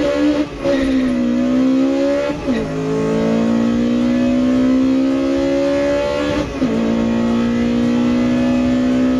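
Acura Integra GSR's B18C1 four-cylinder VTEC engine pulling hard at high revs, its note climbing steadily in each gear. Two upshifts, about two and a half and six and a half seconds in, each drop the pitch before it climbs again.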